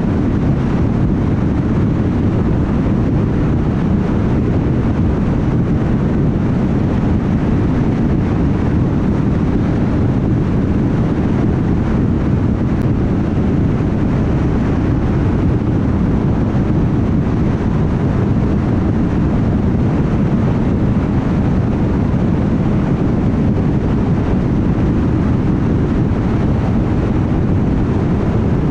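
Car cruising at highway speed: a steady, low rumble of tyre and road noise mixed with wind noise.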